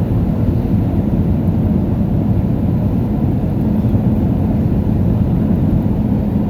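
Airbus A319 heard from inside the passenger cabin: a steady low rumble of engines and rushing air, with a faint steady hum.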